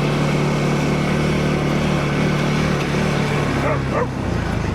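ATV engine running steadily, then dropping back to a lower, pulsing idle about four seconds in, with a brief sliding high sound just before the drop.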